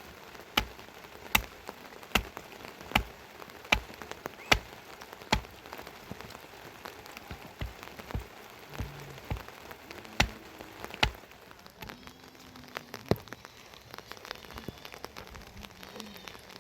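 Rain, with single drops falling and hitting a surface in sharp, evenly spaced ticks a little more than once a second, slowing and turning irregular after about five seconds, over a steady hiss of rainfall.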